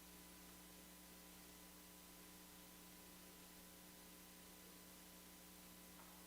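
Near silence: a faint, steady electrical hum and hiss, the room tone of the sound system.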